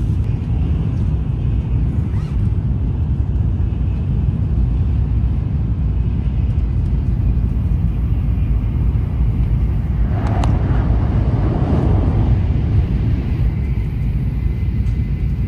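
Steady low rumble of a Shinkansen bullet train running at high speed, heard from inside the carriage by the window. About ten seconds in there is a brief rise of brighter, hissier noise.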